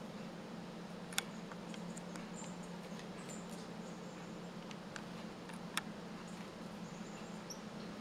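Faint, high, thin bird calls, a few short notes scattered through, over a steady low hum. Two sharp clicks stand out, one about a second in and a louder one near six seconds in.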